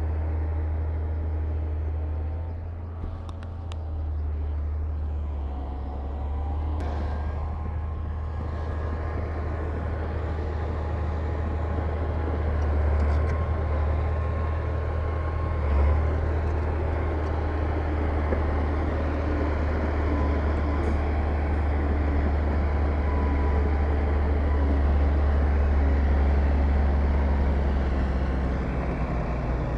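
Heavy diesel construction machinery running steadily under load, a deep engine rumble with higher tones drifting slightly in pitch.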